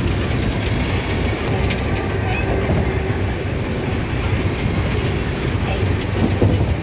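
Indian Railways general-class passenger coach heard from inside while the train runs: a steady low rumble with a few faint clicks.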